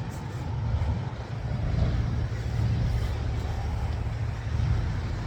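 Steady low rumble of vehicle or road noise, with no distinct events.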